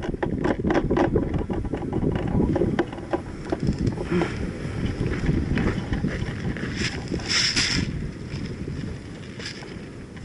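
Wind buffeting the microphone as a steady low rumble, with scattered sharp clicks and rustles and a brief hiss about seven seconds in.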